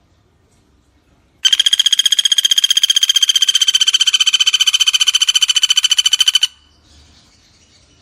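Pelatuk bawang (common flameback woodpecker) giving one long, rapid rattling trill of about five seconds at a steady pitch, then stopping suddenly.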